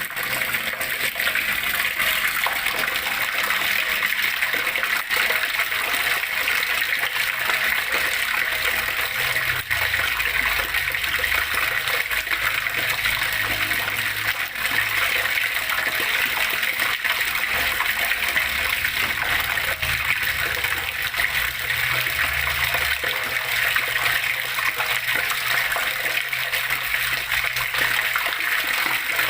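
Flowing water splashing and gushing in a steady, unbroken stream.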